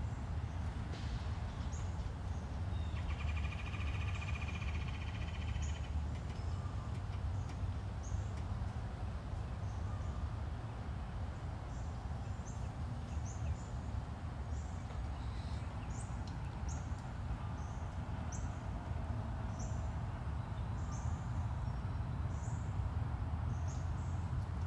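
Outdoor ambience of birds chirping in short high calls, more often in the second half, over a steady low rumble. About three seconds in, a buzzy trill runs for some three seconds.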